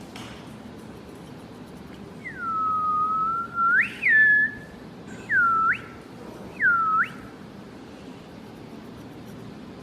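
Whistling: four pure calls, each dipping low and then sweeping sharply up in pitch. The first is the longest, and the two short ones come a second or so apart near the middle.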